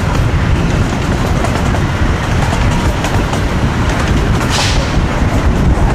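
Small amusement-park train rumbling steadily along its track, heard from aboard, with a short hiss near the end.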